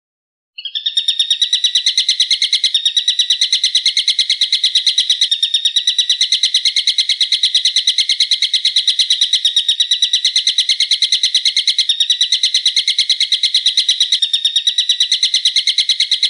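A bird calling in a fast, even series of sharp, piercing notes, about six a second, starting half a second in and going on without pause. This is a masteran tutor call for training songbirds.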